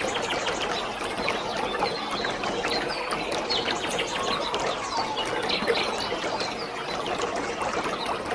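Waterfall splashing steadily, with birds chirping many times over it in short falling notes.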